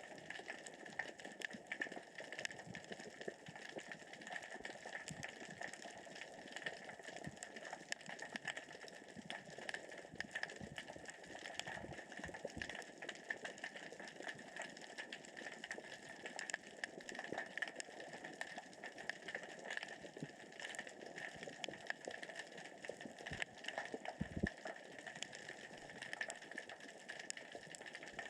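Steady underwater crackle of countless tiny clicks and rattles: small rocks rolling across the sea floor as the current and tide move them.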